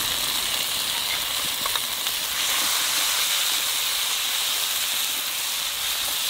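Chopped tomatoes and fried onion-spice masala sizzling and hissing steadily in hot oil in a wok as a spatula stirs them.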